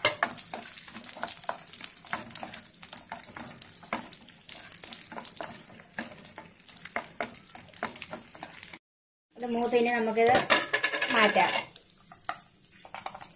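Cashews and raisins sizzling as they fry in ghee in a nonstick pan, with the clicks and scrapes of a wooden spatula stirring them. The sizzling cuts off abruptly about nine seconds in, and a brief, louder stretch of a voice follows.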